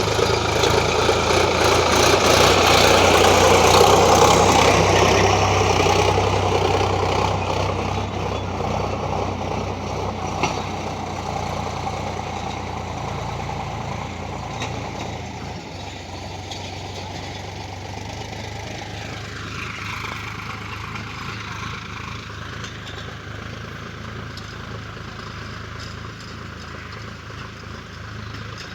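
Sonalika tractor's diesel engine running steadily; loudest in the first few seconds, then growing gradually quieter.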